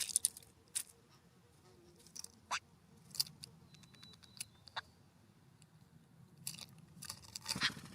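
Birds pecking and picking at seed on a ground feeder: irregular sharp clicks and crunches, with a louder flurry near the end.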